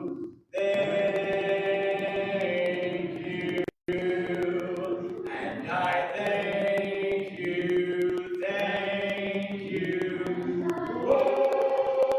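A congregation singing a hymn a cappella in parts, with long held chords changing every second or two. The sound cuts out completely twice, briefly.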